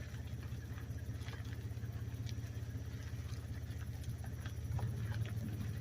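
Vehicle engine idling: a steady low hum, with faint scattered ticks.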